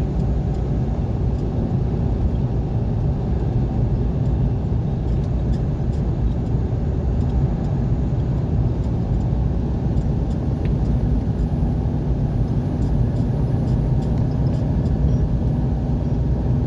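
A car driving along, with its steady engine and road rumble.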